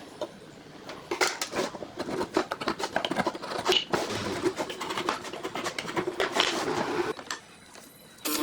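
Rapid scratching and scraping strokes, starting about a second in and stopping shortly before the end.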